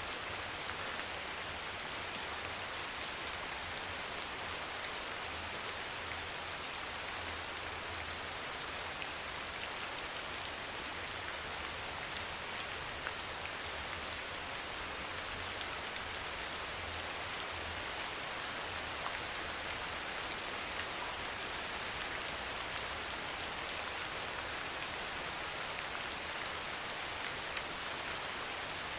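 Steady soft rain falling on a surface, an even hiss with scattered individual drop ticks. A faint low rumble sits underneath and fades out a little past halfway.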